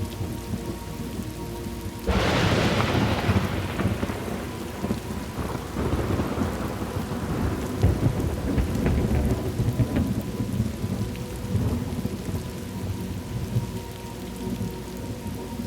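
Thunderstorm ambience: steady rain, with a sudden thunderclap about two seconds in that rolls on as a rumble for several seconds before fading back into the rain.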